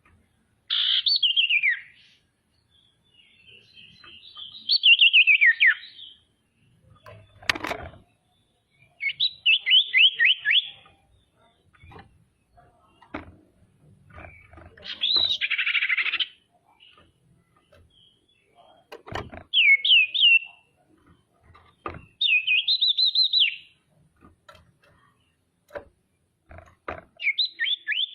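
Female common iora (sirtu, cipoh) singing loud phrases of quick chirping notes, many sliding downward, repeated every few seconds. Sharp clicks fall between the phrases, a strong one about a third of the way in.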